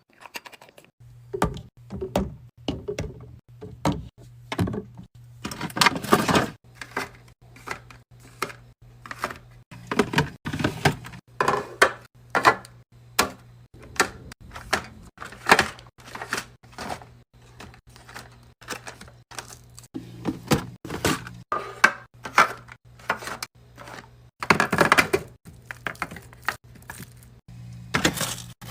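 Food packages and containers being handled and set into a fridge: many sharp clicks, taps and knocks at an irregular pace, with a few longer rustling stretches, over a steady low hum that comes in about a second in.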